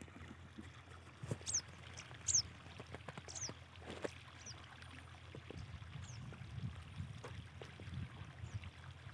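A small bird's short, high chirps, each sliding downward, about six times over several seconds, above a steady low rumble.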